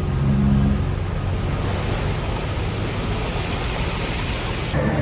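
Diesel engine of heavy earthmoving equipment running under load, with a dense, steady mechanical noise. The sound changes abruptly near the end.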